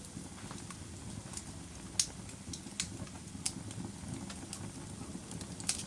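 Wood fire crackling in a fireplace: a low steady rumble of flames with sharp pops about once a second, the loudest about two seconds in.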